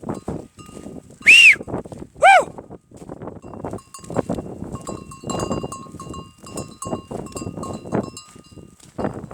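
A flock of Hissar sheep milling about, with a busy clatter of many small knocks and shuffles throughout. Two short, loud, arching calls come about one and two seconds in. From about four seconds a faint steady ringing runs under the clatter.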